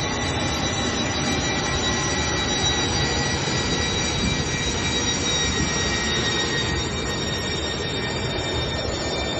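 Airliner's jet engines running: a steady, loud rushing noise with a high, even whine on top.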